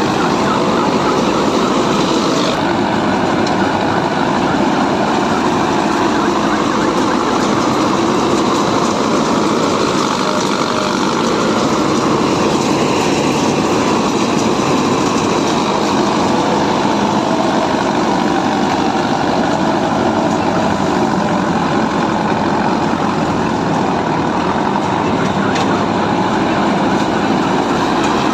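Engine of a tractor or combine harvester running steadily under load, a loud continuous mechanical noise.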